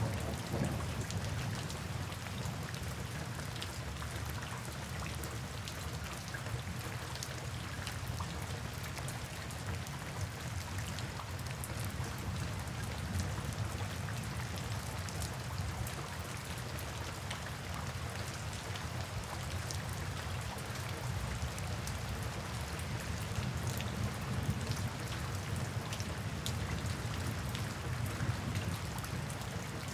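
Steady rain falling: an even hiss of rain on surfaces with scattered sharp drop ticks over a low, steady rumble.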